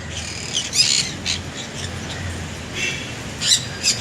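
Yellow-sided conure, an egg-bound hen, giving a run of short, harsh squawks while being handled and pressed with warm water at the vent.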